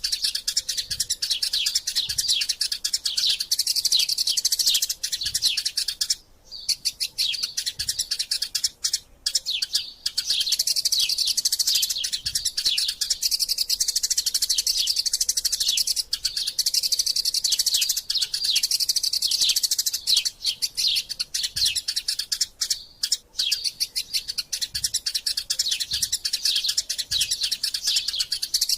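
Eurasian tree sparrows chattering in fast, dense chirps, the squabbling calls of birds fighting, with a few short breaks about six, nine and twenty-three seconds in.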